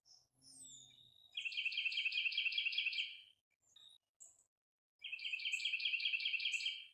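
A songbird singing two rapid trills, each about two seconds long and made of quickly repeated notes, with a short high whistle and a few faint calls before and between them.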